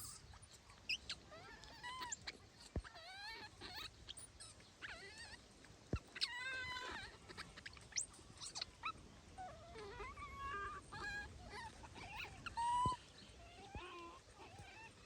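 Baby monkeys crying: a string of short, high calls, some wavering and some rising or falling in pitch, with a few sharp clicks between them.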